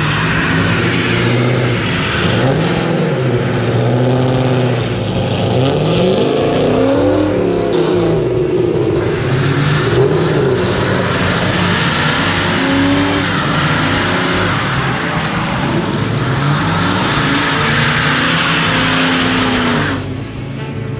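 Several car engines running and revving as cars drive past, their pitch rising and falling over a steady engine drone.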